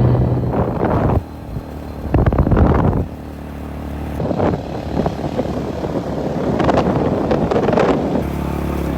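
A vehicle running, with wind gusting on the microphone in irregular loud surges.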